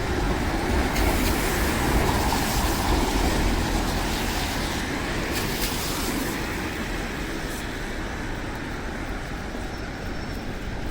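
Traffic on a wet city street: a vehicle passing with tyre hiss over a low engine rumble, louder in the first half and fading after about six seconds.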